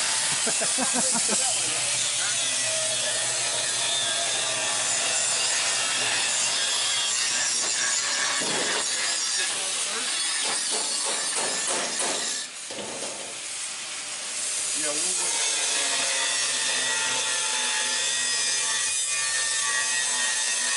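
A power tool cutting metal runs steadily, a dense continuous grinding noise with a faint wavering whine. It eases off briefly about twelve seconds in, then picks up again.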